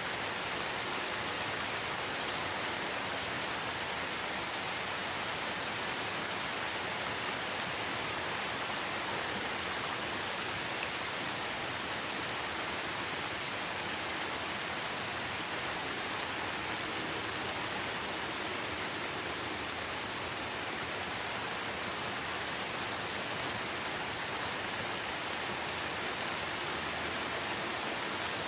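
Steady rain falling in a rainforest, an even hiss of many drops with no let-up.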